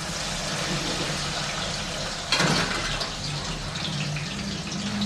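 Pieces of beef frying in hot oil in a kadai, a steady loud sizzle from a freshly added batch, with a louder surge of sizzling a little over two seconds in.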